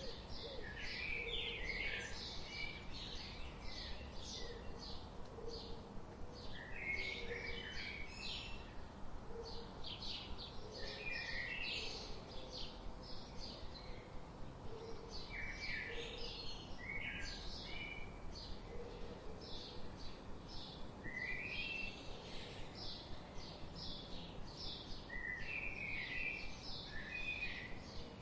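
Several wild birds singing together: a steady stream of quick, high chirps, broken every few seconds by short lower falling phrases, with soft low notes repeating faintly underneath and a steady background hiss.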